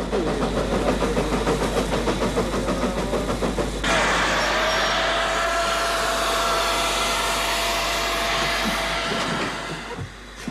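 Steam train at a station platform: a rapid rhythmic clatter of the train, then about four seconds in a sudden steady hiss of steam with a held high tone, fading away near the end.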